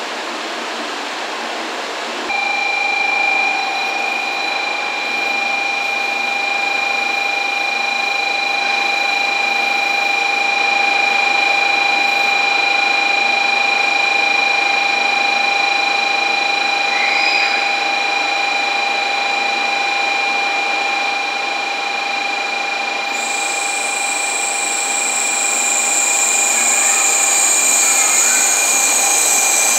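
N700-series Shinkansen train standing at the platform, giving off a steady high whine of several pitches over a broad hiss. The whine sets in about two seconds in, and a higher hiss joins near the end.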